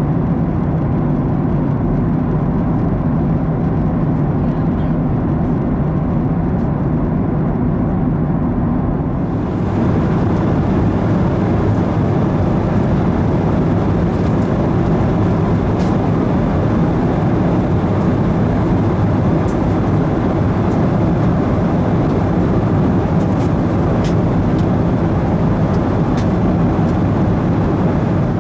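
Steady cabin noise of a Boeing 737-900ER in cruise: CFM56-7B engine rumble and airflow, heard from inside the cabin. About nine seconds in, the sound turns brighter, with more hiss added to the rumble.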